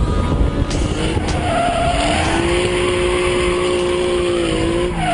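Engine revving hard with tyres squealing; the engine pitch climbs over the first two seconds, holds steady, then begins to drop right at the end.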